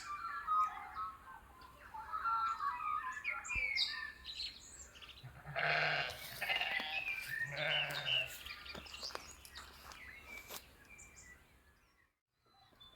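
Birds chirping, then a Harlequin sheep bleats twice, about six and eight seconds in.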